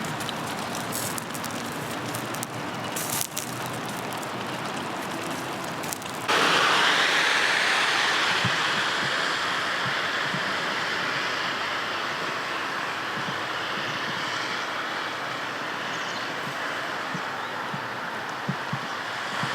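Rain falling with scattered crackles from a wood fire. About six seconds in, a sudden, louder steady hiss takes over and slowly fades.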